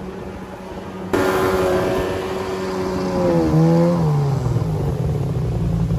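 Small jet boat's two-stroke motor running, abruptly louder about a second in; its pitch dips and recovers near the middle, then settles into a steady low drone.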